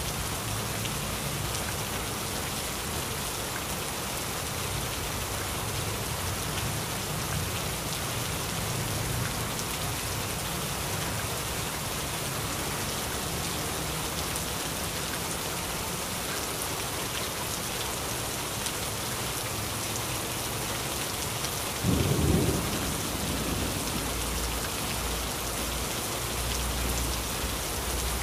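Heavy rain falling steadily, with thunder: low rumbling through the first part, then a sudden loud thunderclap about three quarters of the way in, followed by a low rumble.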